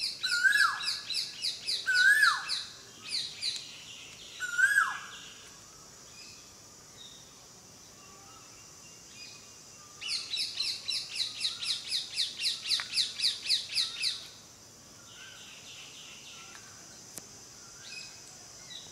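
Birds singing in trees: several calls that sweep up and then fall in the first few seconds, then a quick, even run of about five notes a second lasting about four seconds.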